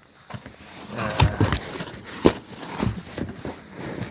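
Plastic packing bags being handled and rustled, with scattered knocks and one sharp tap about two seconds in.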